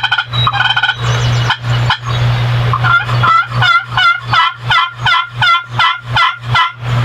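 Wild turkey calling: a steady series of about ten yelps, roughly two and a half a second, after a few shorter notes in the first second. A steady low hum runs underneath.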